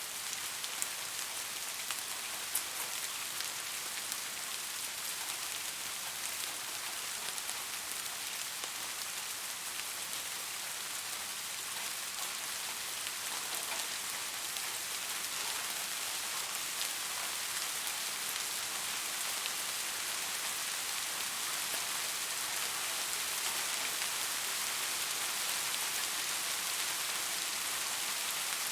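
Steady rain falling on a surface, an even hiss with scattered drop ticks, growing slightly louder in the second half.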